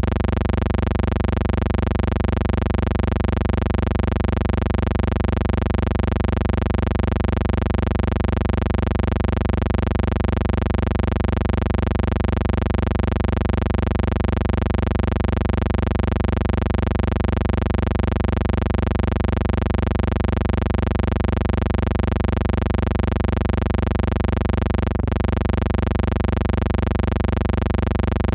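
A steady, unchanging electrical hum with many evenly spaced overtones over a low rumble, the noise of a transfer of silent film that has no real soundtrack. It drops out very briefly about 25 seconds in.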